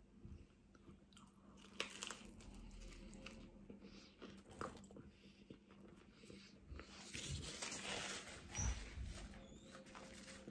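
Close-up mouth sounds of biting and chewing crusty garlic bread topped with bolognese sauce, with scattered crunches and wet chewing clicks. Near the end comes a longer rustle as a paper napkin wipes the mouth.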